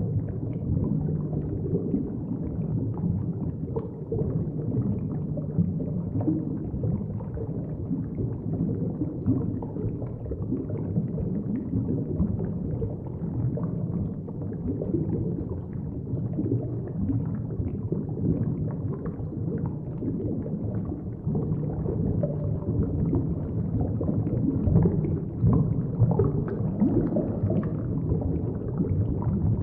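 Moving water heard underwater through a submerged camera: a steady, muffled low rumble and churning with many small irregular knocks and swells, no higher sounds.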